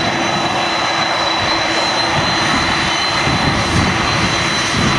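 Jet aircraft engines at takeoff thrust, heard from very close: a loud, steady rushing noise with a thin high whine held throughout.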